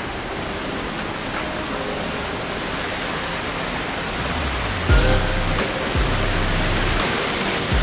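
Rushing water of a river waterfall, a steady dense hiss. From about halfway through, a low rumble and a few dull thuds join it.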